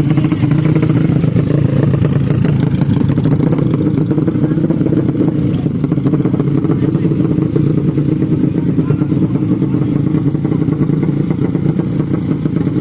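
Drag-racing motorcycle engines running steadily at an even pitch.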